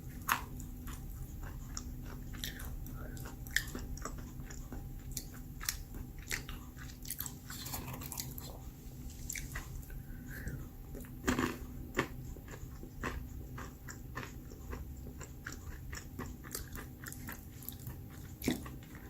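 Close-up chewing and crunching of almonds: irregular crisp cracks as the nuts are bitten and ground between the teeth, with sharper bites about eleven seconds in and near the end.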